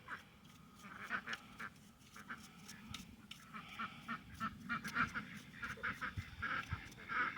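Ducks quacking faintly and off and on, with a few light clicks.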